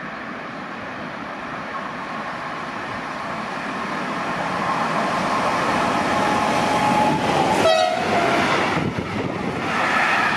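A train passing through a station, getting steadily louder as it approaches. Its horn sounds as it passes, a held tone that drops in pitch about three-quarters of the way through.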